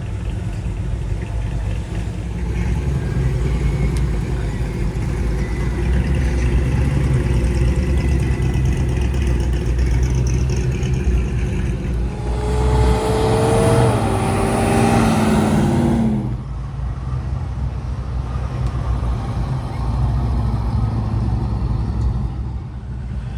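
Classic cars' engines running as they drive off, a steady low rumble. About halfway through, one car passes close, louder, its engine note falling in pitch before cutting off suddenly.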